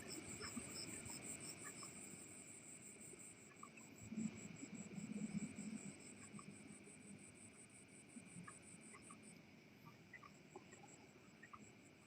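Insects chirping in a steady, rapidly pulsing high trill, faint throughout, with a brief low rustle about four to five seconds in.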